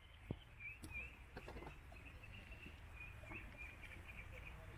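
Small birds chirping and twittering repeatedly over a low rumble of wind. A few short clicks come through, the loudest about a third of a second in and more around one and a half seconds.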